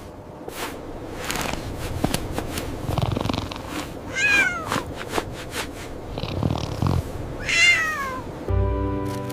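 A cat meowing twice, each call falling in pitch, over scattered clicks; a low steady buzzing hum comes in near the end.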